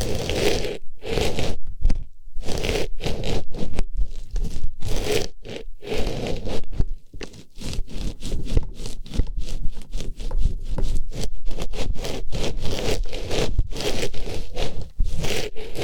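An artificial flower being pushed into a microphone's ear and rubbed around inside it. It makes close, irregular scraping and rustling strokes, several a second, with brief pauses between them.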